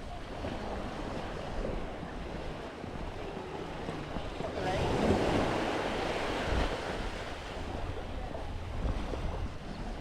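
Waves breaking and washing up on a beach, with wind buffeting the microphone. One wave swells loudest about halfway through.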